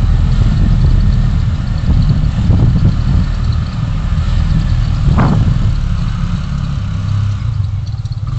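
Car engine running with a steady low rumble and road noise, with one brief thump about five seconds in.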